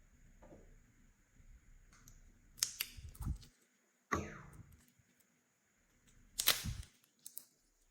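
Slime being squeezed and worked by hand, with a few loud sharp pops and crackles as trapped air bursts out of it.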